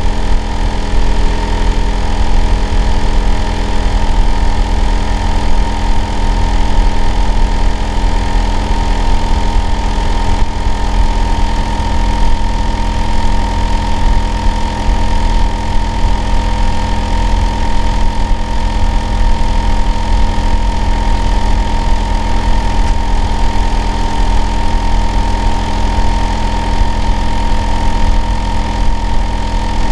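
Hitachi air-conditioner outdoor unit running loudly and steadily: a deep drone with a constant whine above it. The noise is taken for abnormal.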